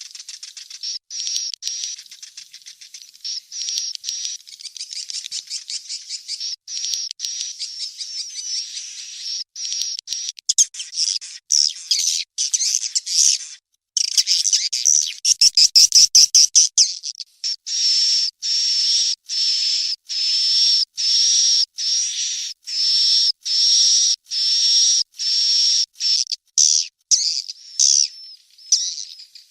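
Recorded calls of edible-nest swiftlet chicks, the kind played to lure swiftlets to roost. High chirps come in quick trains at first, with a short break about halfway, then settle into evenly spaced calls about one a second.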